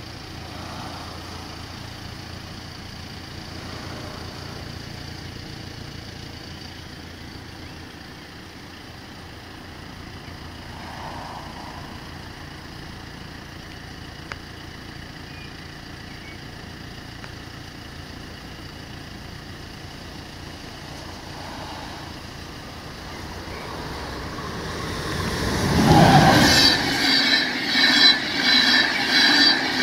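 A passenger train of Swiss SBB coaches passes close by. Its sound rises quickly about 25 seconds in, after a long stretch of low steady background, and the wheels then beat out a regular rhythm about twice a second as the coaches roll past.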